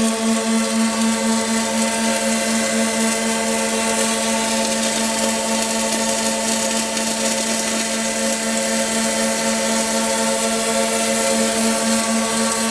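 Automatic double-head circumferential seam welding machine running: a steady, slightly pulsing electrical hum with a hiss over it.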